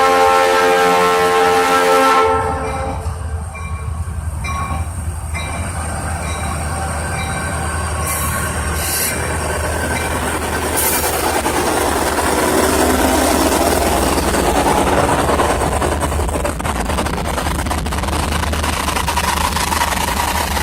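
Diesel freight locomotive's air horn sounding a chord, cutting off about two seconds in. It is followed by the steady low rumble of the locomotives and the rolling clatter of the train's cars going by.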